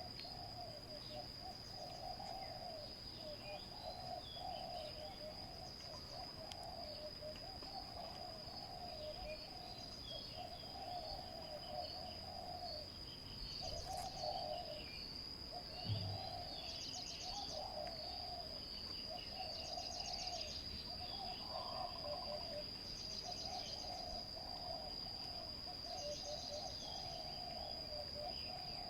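Spotted doves cooing in a run of repeated low phrases, over a steady high-pitched insect drone and scattered chirps of small birds.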